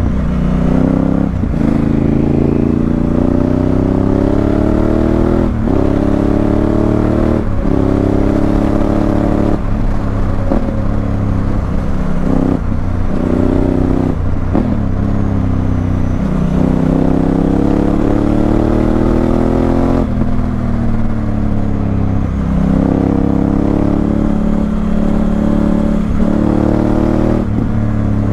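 Honda Africa Twin CRF1000L's parallel-twin engine through a Remus aftermarket exhaust, ridden hard through the gears. The pitch climbs and then drops at each upshift, again and again, with a spell of falling revs on the overrun midway.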